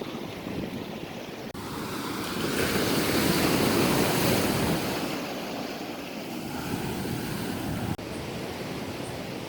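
Ocean surf washing onto a beach, swelling to its loudest about three seconds in and then easing back.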